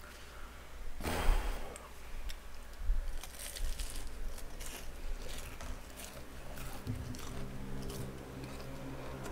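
Close-miked chewing and biting of boneless fried chicken, with many small crunchy clicks through the second half. A short hissing burst comes about a second in.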